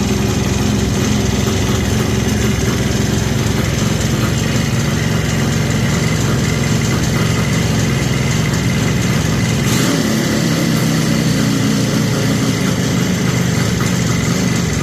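Kawasaki H2's two-stroke three-cylinder engine idling steadily after being started, its note shifting slightly about ten seconds in.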